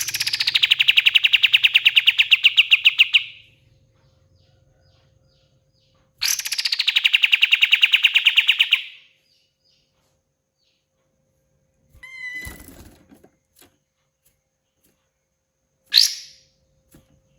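A kapas tembak songbird gives two long, rapid rattling trills of about ten notes a second, each lasting around three seconds, several seconds apart. Later come a short chirp with a brief rustle and then a single sharp falling note.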